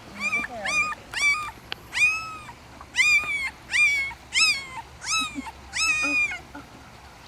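Newborn German Shepherd puppy crying in a run of about nine high, arching squeals that stop about six and a half seconds in.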